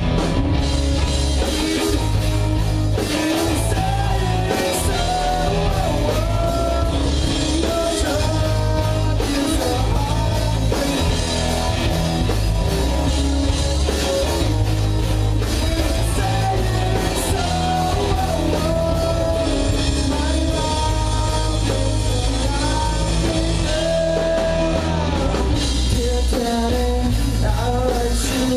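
Live rock band playing a song: a singer's voice over drums, guitar and a heavy bass line.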